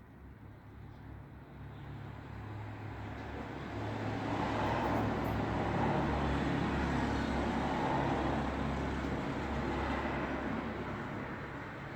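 Road traffic: a motor vehicle's low engine hum and tyre noise swell over the first few seconds, peak around the middle, then ease off a little as it goes by.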